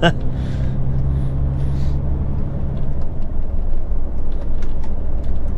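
HGV truck engine and road noise heard inside the cab while driving: a steady low rumble, with a steady engine tone for about the first three seconds that then drops away.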